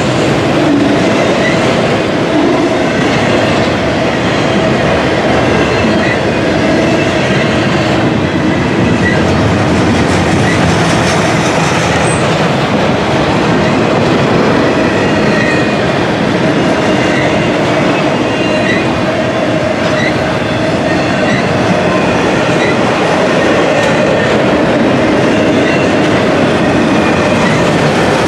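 Double-stack intermodal container cars rolling past at close range: a loud, steady rumble of steel wheels on rail, with brief faint wheel squeals now and then.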